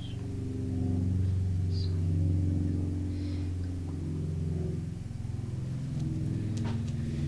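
Low, steady droning tones that shift slowly in pitch, with a few faint light clicks of crystal stones being tapped and scratched, about two seconds in, again a second later, and near the end.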